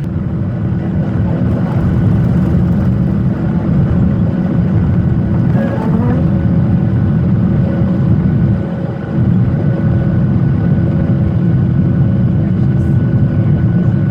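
Boeing 737 jet engine and airflow noise heard inside the passenger cabin: a loud, steady low rumble that builds over the first couple of seconds, with a brief dip about nine seconds in.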